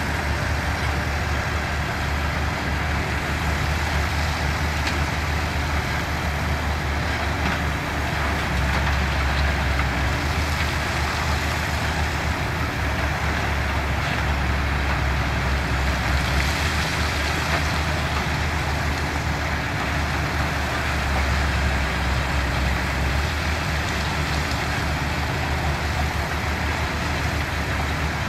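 Heavy diesel construction machinery running steadily: a deep, continuous engine drone with a broad mechanical rumble over it.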